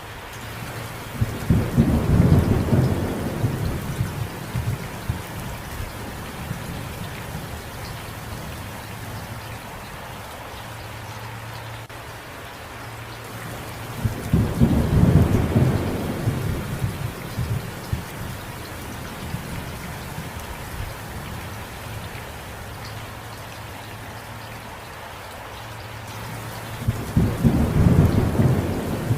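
Steady rain falling, with three low rolls of thunder: one about a second in, one about halfway through, and one near the end.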